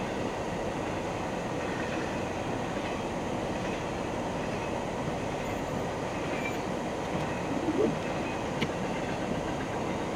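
Norfolk Southern double-stack intermodal freight train rolling past close by: a steady rumble of wheels on rail. A little under 8 seconds in there is a brief louder rising squeal, followed by a single sharp click.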